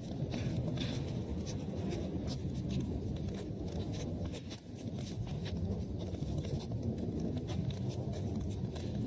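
Wood fire crackling in a fireplace: many quick, irregular pops and snaps over a steady low rumble of the flames.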